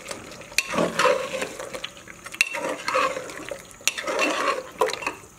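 A spoon stirring wet, spiced mutton in a cooking pot, scraping and clinking against the pot in repeated strokes about once a second.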